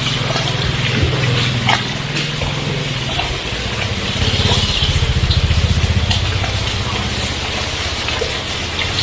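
Heavy rain falling steadily on a street, with a low engine hum underneath. About four seconds in, a vehicle engine throbs louder for a couple of seconds, then fades back.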